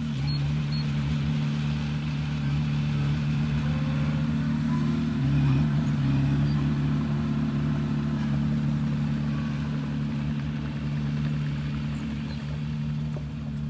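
Heavy diesel engine of construction machinery running steadily, a little louder about five seconds in.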